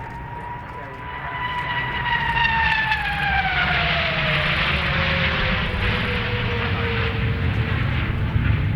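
L-15 jet trainers' turbofan engines passing overhead. A high whine falls steadily in pitch as the jets go by, and a loud rushing roar builds from about two seconds in and holds.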